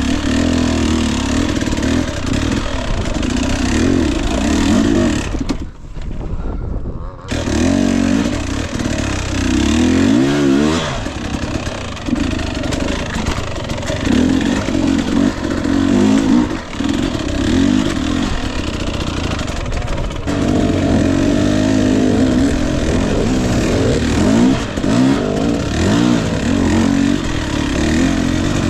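Husqvarna TE 250i fuel-injected two-stroke dirt bike engine revving up and down in uneven bursts on a slow, technical rocky climb. About six seconds in, the sound dips for a second or so before the revs pick up again.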